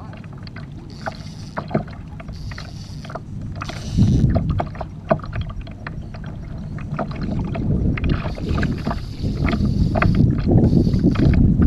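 Water sloshing and splashing against a kayak hull while a hooked salmon tows the kayak, with scattered sharp clicks and knocks. The wash swells about four seconds in and grows louder again over the last few seconds.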